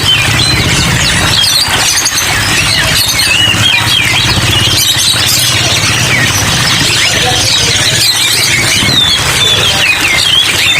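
Many caged songbirds chirping and twittering at once in a dense, overlapping chorus of short high calls, as in a bird shop, over a steady hiss and a steady low hum.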